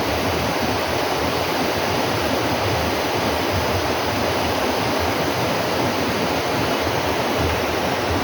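Steady rushing noise of running water, even and unbroken, with a flickering low rumble underneath.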